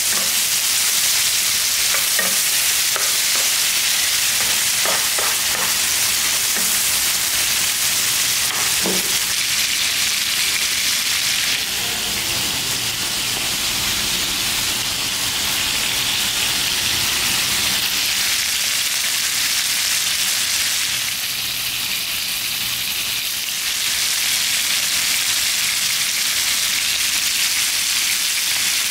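Beef cubes sizzling steadily in butter and garlic in a frying pan, with a wooden spatula stirring and knocking lightly against the pan during the first several seconds.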